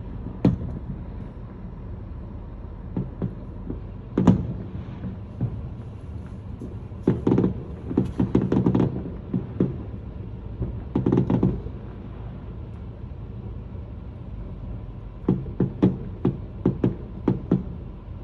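Fireworks exploding: scattered sharp bangs and pops, some single and some in rapid clusters, over a steady low rumble.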